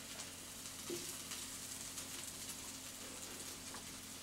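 Brussels sprouts sizzling quietly in butter and garlic in a skillet, with a fine crackle and a couple of soft taps of the spatula against the pan about a second in.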